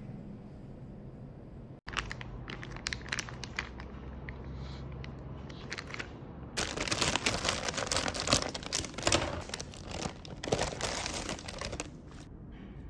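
Crinkling and rustling handled close to the microphone, with scattered clicks at first, then dense crackling from about halfway until near the end.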